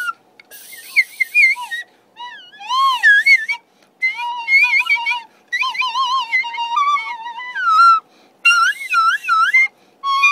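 Soprano recorder with a water-soaked tissue packed between the mouthpiece and the body, played as a warbling bird whistle. It gives several short phrases of wavering, chirping notes that slide up and down in pitch, with brief gaps between phrases.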